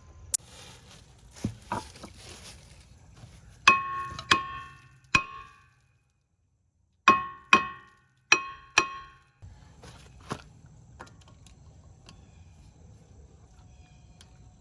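A ringing metal part struck sharply seven times, in a group of three and then a group of four, each strike ringing at the same pitch; a few lighter knocks come before and after.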